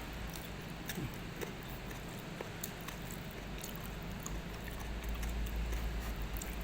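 A person chewing a mouthful of spiced chicken stir-fry with peanuts, with scattered small mouth clicks over a steady low rumble.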